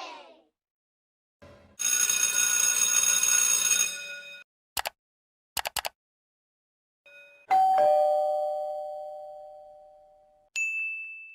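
A string of separate sound effects. About two seconds of ringing shimmer over a hiss comes first, then a few quick clicks, then a two-note 'ding-dong' doorbell chime, high then low, fading out slowly. A short high beep follows near the end.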